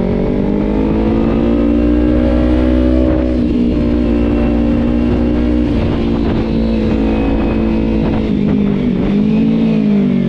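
Kawasaki Z300 parallel-twin engine pulling at a steady cruise, heard from the rider's position. Its pitch holds mostly steady, dips briefly and picks up again about nine seconds in, then starts to fall at the very end.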